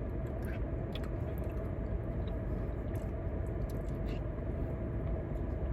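A person biting and chewing seasoned fried-chicken-meal food close to the microphone, with a few faint wet clicks, over a steady low rumble.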